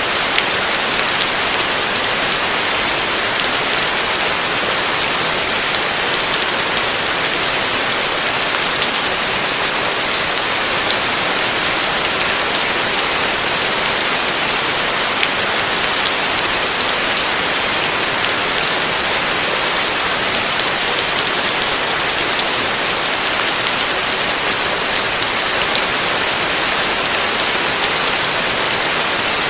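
Heavy rain falling steadily on a roof, a dense even hiss dotted with the small ticks of single drops.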